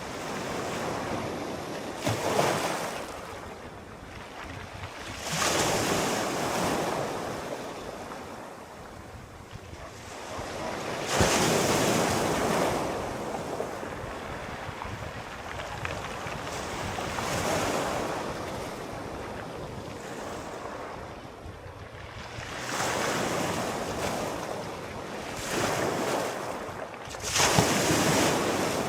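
Sea waves breaking and washing in, one surge every few seconds, the loudest about two seconds in, about eleven seconds in and near the end, with wind between them.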